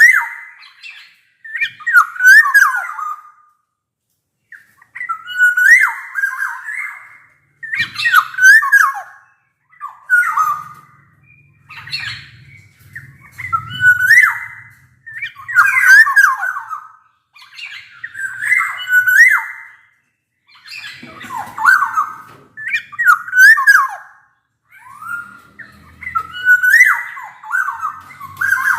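Black-naped oriole singing loud, fluty whistled phrases, one every one to two seconds, each a quick run of notes gliding up and down.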